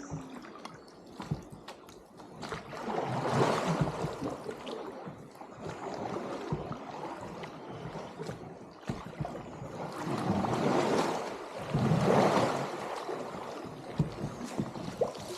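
Water splashing and gurgling around a small boat on the river, swelling louder three times: once early, then twice close together near the end.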